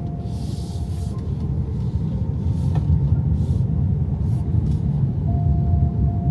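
Road and tyre rumble heard inside the cabin of an XPENG G6 electric SUV on the move. A thin steady tone drops out about a second in and comes back near the end, with a few brief swells of hiss over the top.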